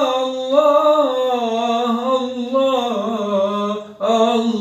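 A single voice singing an Arabic devotional nasheed, drawing 'Allah' out into long melismatic notes that slide between pitches. There is a short breath near the end before the next 'Allah' begins.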